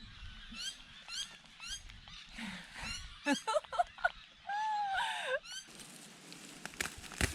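Birds singing: short rising chirps repeated about twice a second, then a louder warbling song with a long arched whistle. A few sharp clicks come near the end.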